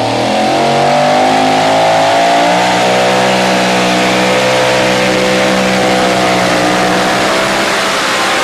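Two-wheel-drive pulling truck engine running at full throttle under heavy load on a pull. It climbs in pitch over the first couple of seconds, then holds high and steady, easing off slightly near the end.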